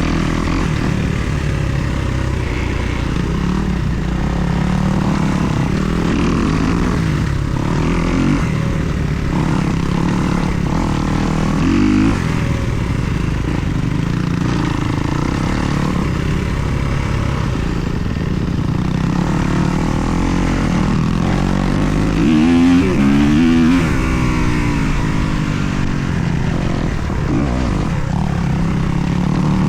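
2024 Kawasaki KX250 motocross bike's four-stroke single-cylinder engine running under load, its revs rising and falling as it is ridden. There are quick sharp rises about twelve seconds in and again a little past twenty-two seconds.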